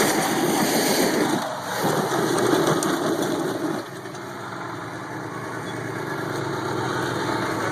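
Dodge pickup truck's engine running hard, being deliberately run without oil to destroy it. The level dips briefly about a second and a half in, falls away again about four seconds in, then runs steadier.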